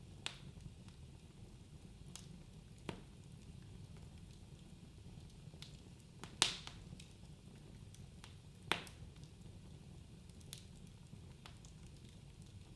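Wood fire burning in a fireplace with a low steady rumble, crackling with scattered sharp pops, two of them louder, about halfway and about two-thirds of the way through.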